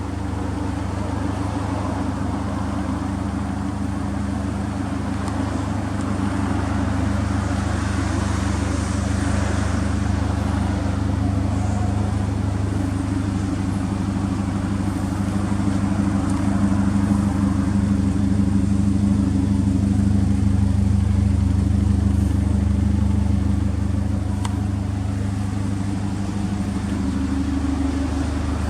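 Subaru Impreza WRX STI's turbocharged flat-four engine running steadily at a constant low speed, with a slight swell in level about two-thirds of the way through.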